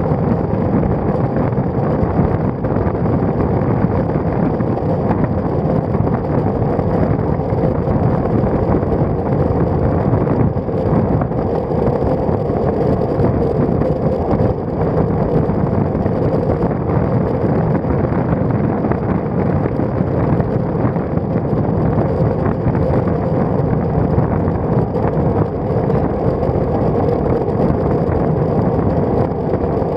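Steady wind rush and rolling noise from a road bicycle in motion, heard through a stem-mounted action camera's microphone.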